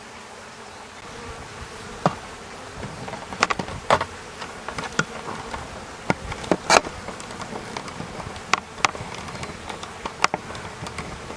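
Honeybees buzzing around an opened top-bar hive, with many short, sharp clicks scattered through the hum. The bees are agitated by the hive being opened.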